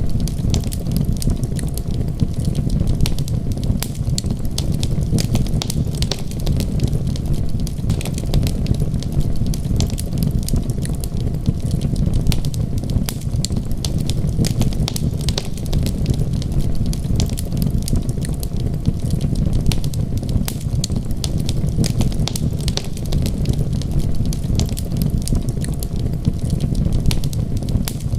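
Wood fire crackling, with many small sharp pops and snaps scattered throughout over a steady low rumble.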